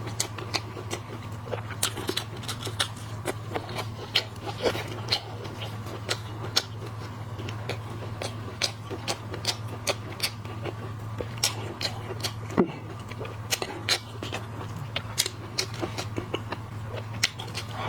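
Someone eating shrimp and crab close to the microphone: irregular sharp clicks and crunches of shell and chewing, over a steady low hum.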